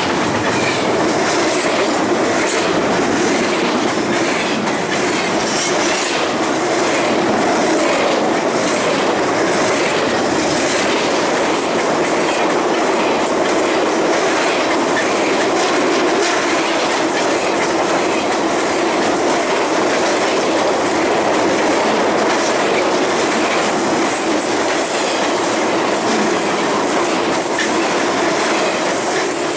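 Train cars rolling past, wheels clicking steadily over the rail joints at an even level.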